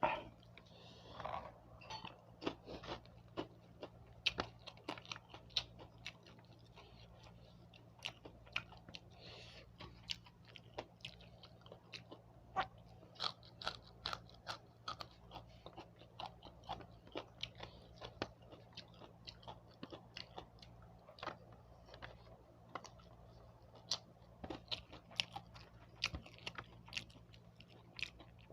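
A person chewing and crunching food close to the microphone, with many short, crisp crunches at an irregular pace.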